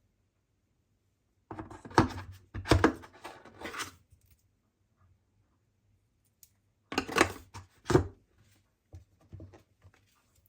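Handling noise from an iPad Air unboxing: cardboard and plastic packaging rustling with sharp taps and knocks, in a cluster starting about a second and a half in and another about seven seconds in, then a few fainter clicks near the end.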